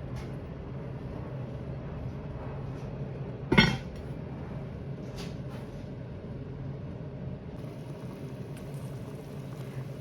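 Kitchen cookware clinking once, sharply, about three and a half seconds in, with a few faint ticks, over a steady low hum in the kitchen.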